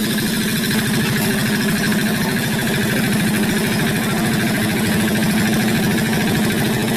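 Hand tractor's single-cylinder diesel engine running steadily, with a fast, even beat of firing pulses.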